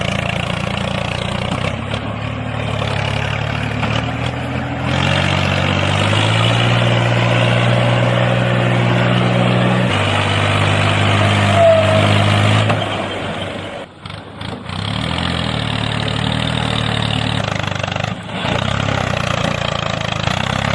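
Miniature tractor's engine running steadily. It steps up in pitch about five seconds in, then drops back in steps, briefly dipping near the middle before running on.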